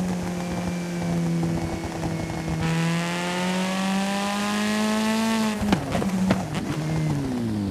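Video game car engine running at a steady note that rises slowly, then a few sharp crash impacts about six seconds in, after which the engine pitch falls.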